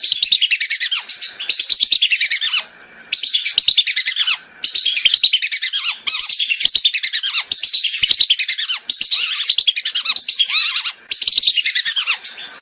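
Whistling ducks (belibis) calling continuously in loud, rapid runs of high whistled notes that fall in pitch, broken by a few short pauses.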